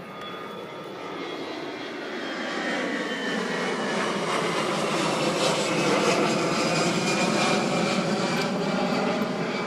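Low-flying aircraft passing overhead, its engine noise swelling to a peak about six seconds in and easing off near the end.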